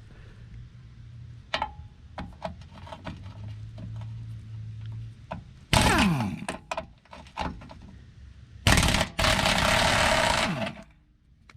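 Power impact wrench on a rusted skid plate mounting bolt: a short burst, then a longer burst of about two seconds, and the bolt comes loose easily. Scattered light clicks and knocks of tool and socket come before the bursts.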